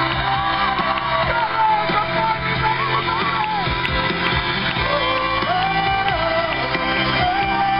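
Live band playing a song on a stage sound system, with a male singer's voice carrying the melody over it.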